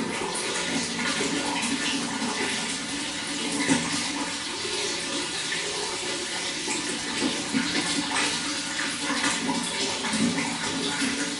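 Running water flowing steadily, a continuous splashing, gurgling rush.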